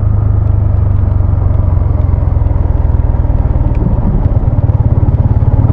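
Motorcycle engine running while riding, a steady low drone with a rapid firing pulse that becomes more distinct in the second half.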